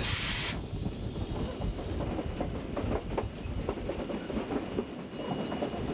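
Steam-hauled passenger train rolling along: a steady low rumble with irregular clicking of wheels over rail joints. It opens with a short hiss of steam as the locomotive's whistle ends.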